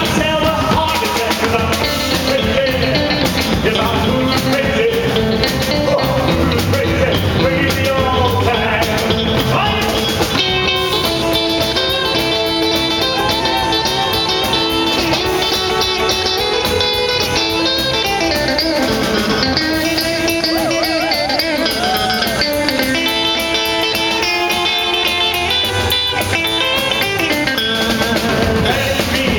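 Live rock and roll band playing, with guitar lines over a drum kit.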